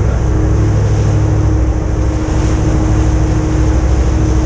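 A boat's engine running steadily, a low drone with a constant hum, under a haze of wind and water noise.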